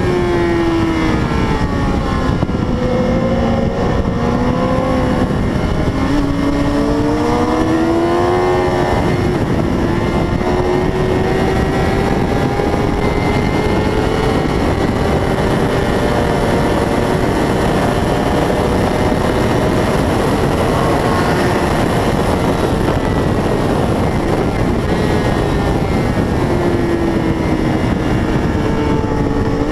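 600 cc racing motorcycle engine running hard at high revs, its pitch falling and jumping back up several times as it changes gear through corners, then holding high and climbing slowly on a long stretch of throttle before dropping and rising again near the end. A steady rush of wind noise runs underneath.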